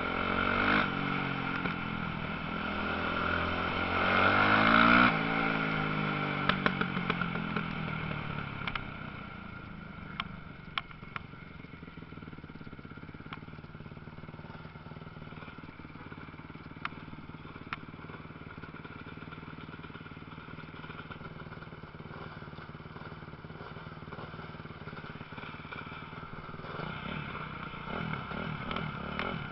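Motocross bike engines revving up and down as they race past, loudest about four or five seconds in, then fading to a quieter, steadier engine noise with a few sharp clicks. Near the end, engines come in again, rising in pitch as they approach.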